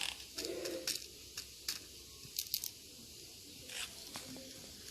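Faint handling noise: scattered light clicks and rustles, irregularly spaced.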